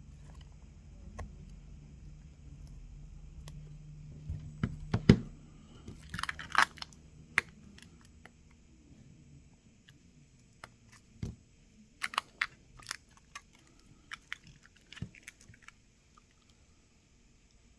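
Scattered clicks and short crackling sounds of small phone parts and adhesive being handled with tools, over a low hum that stops about five seconds in.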